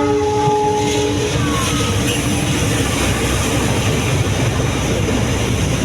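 KAI train's horn sounding a steady chord that cuts off about a second in, then the steady rumble of the train running past.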